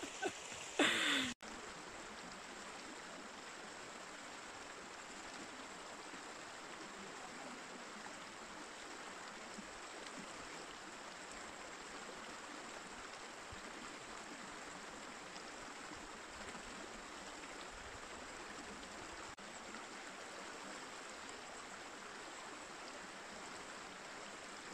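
A river flowing with a steady rushing sound, after a brief bit of voice about a second in.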